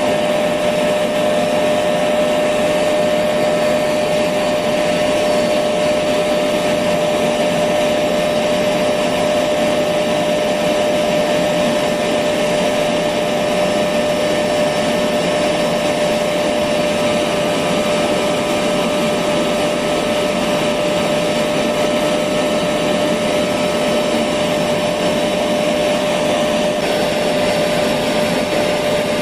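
Electric vacuum cleaner running continuously at a steady pitch: an even motor whine with a constant rush of air.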